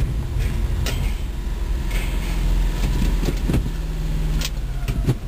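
1991 Suzuki Carry 4x4 kei truck's small three-cylinder engine running with a steady low rumble, with a few sharp clicks or knocks over it.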